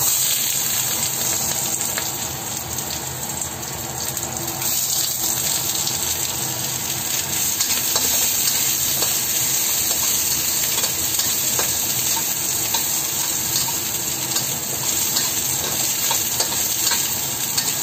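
Sliced onions and ginger sizzling in hot oil in a stainless steel wok. The sizzle jumps up at the start as the onions go in, with scattered scrapes and taps of a metal utensil as they are stirred.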